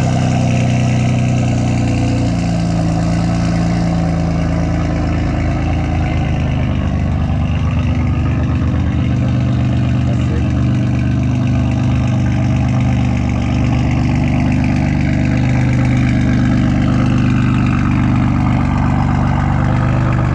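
Mitsubishi Lancer Evolution VIII's turbocharged 4G63 four-cylinder engine running steadily at low revs.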